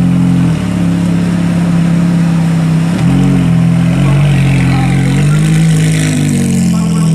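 Decatted Ferrari F430 Spyder V8, its catalytic converters removed, running at low revs as the car pulls away slowly. The engine note steps up and down a few times with light throttle.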